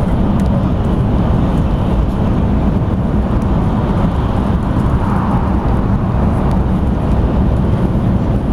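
Steady rumble and hiss of a Shinkansen bullet train running, heard from inside the passenger cabin.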